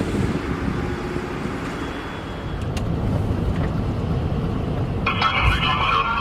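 Fire engine running on the road with a steady low engine rumble that builds a little midway. Near the end a long, steady horn blast starts and holds without changing pitch.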